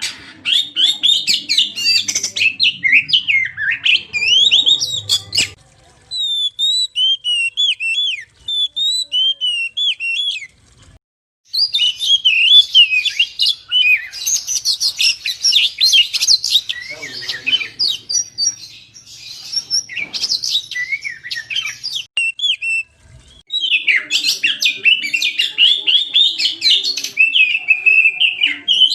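Oriental magpie-robin (kacer) singing a fast, varied chattering song of rapidly bending high notes, in several long bursts separated by short pauses.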